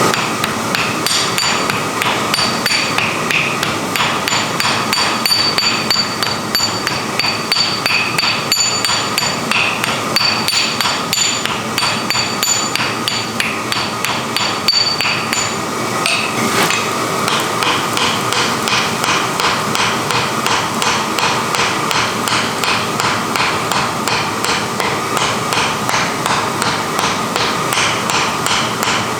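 Hammer blows on iron at the anvil during forging, struck in a rapid, even rhythm without a break, some of the strikes leaving a faint metallic ring.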